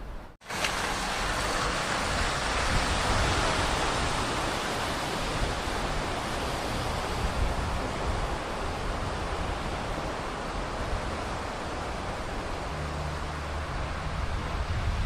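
Heavy rain falling, a steady rushing hiss. A low hum joins it near the end.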